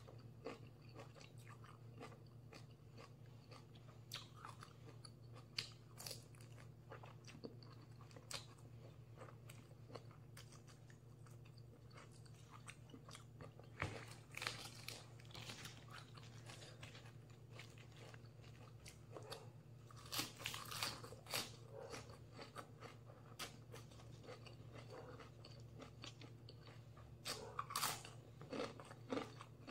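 Quiet, close-miked chewing of raw celery and lettuce leaves, with scattered crisp crunches that come in a few bunches.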